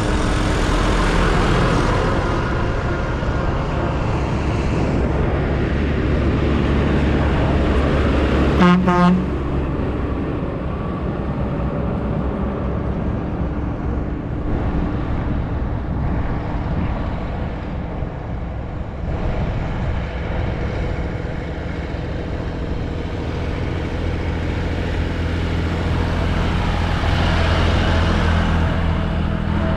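Diesel tractor engines running steadily on the road, with one short horn toot about nine seconds in.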